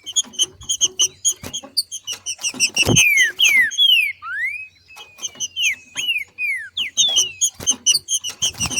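Female green-winged saltator (trinca-ferro) giving its 'macheando' call: a fast run of sharp chip notes, several a second, broken by short falling and rising whistled slurs that bunch up about three seconds in and again around six to seven seconds.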